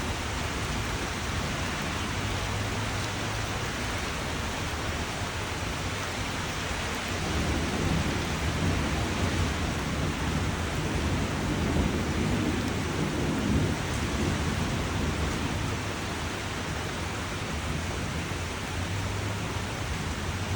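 Steady rain. A low rumble of distant thunder swells about a third of the way in and dies away about three quarters of the way through.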